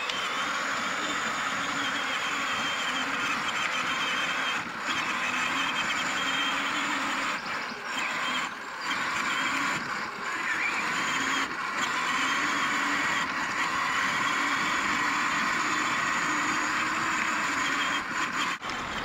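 Children's 12-volt electric ride-on quad driving over rough ground: its small electric gear motors whine steadily under a wash of noise from the hard plastic wheels. The motor sounds a little noisier than it should, which the owner puts down to probable damage to one of the plastic gearbox gears.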